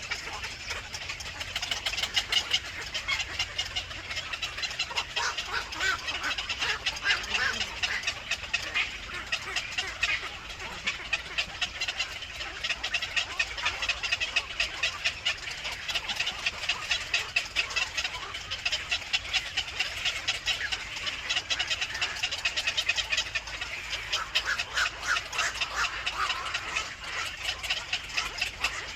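Birds chirping: a dense, continuous stream of high, rapid chirps from many overlapping calls.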